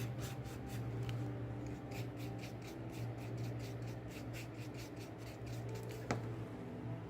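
Paintbrush working acrylic paint, a quick run of short scrubbing strokes of the bristles, several a second, over a steady low hum. A single sharp click about six seconds in.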